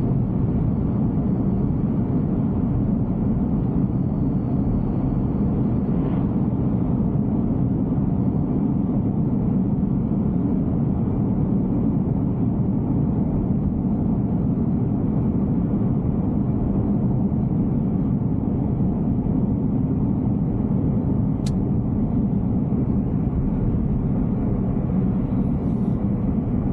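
Steady low road and tyre rumble inside the cabin of a moving Tesla Cybertruck, with one short tick about twenty seconds in.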